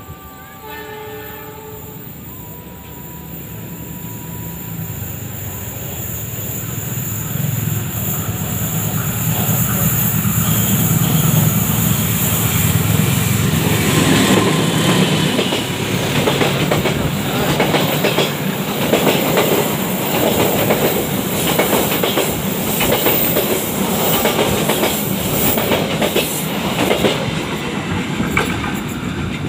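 A KAI CC206 diesel-electric locomotive and its long-distance passenger train approaching and passing close by. The locomotive's deep rumble grows louder over the first ten seconds or so, then the wheels clatter rhythmically over the rail joints as the coaches go by. A short train horn sounds about a second in.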